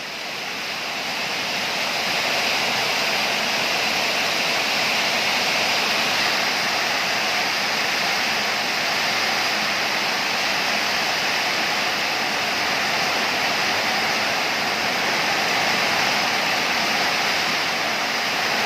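A storm's strong wind and heavy rain: a steady, loud rushing noise that swells over the first couple of seconds and then holds.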